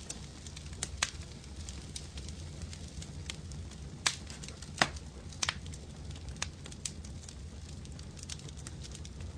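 Fire crackling in a fireplace: scattered sharp snaps and pops, a few louder ones around the middle, over a steady low rumble.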